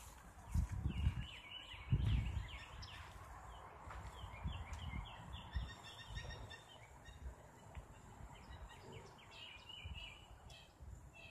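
Wild birds chirping and calling, many short calls over and over. A couple of low thumps in the first two seconds are the loudest sounds.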